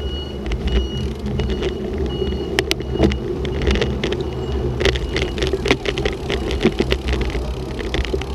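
Motor vehicle engine running steadily, with scattered clicks and knocks and short high-pitched tones now and then.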